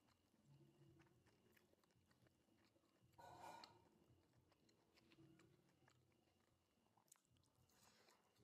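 Faint close-up chewing of crispy battered fried mushrooms, with scattered small wet clicks, and one short, louder burst of noise about three seconds in.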